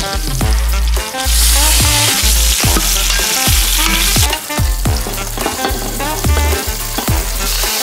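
Garlic, ginger and dried chillies sizzling and being stirred in hot oil in a pressure cooker's stainless steel inner pot. The sizzle is loudest for about three seconds from a second in and picks up again near the end. A steady kick-drum beat of background electronic music runs underneath.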